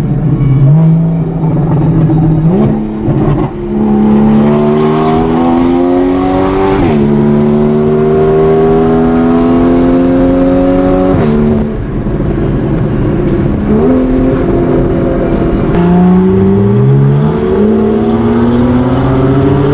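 Straight-piped 981 Porsche Cayman flat-six with a custom cat-back straight-pipe exhaust, accelerating hard through the gears: the exhaust note climbs steadily in pitch and drops back sharply at each upshift, several times over, then climbs again.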